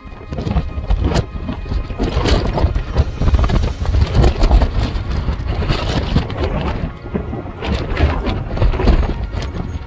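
Strong wind buffeting the microphone: a loud, gusting low rumble with hissing over it.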